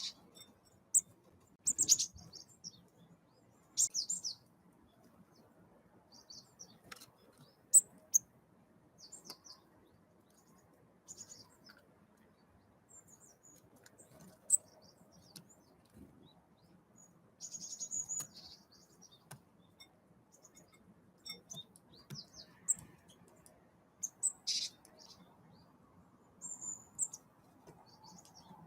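Wild birds at a feeder giving short, high chirps and calls, scattered irregularly, with a few sharp clicks among them.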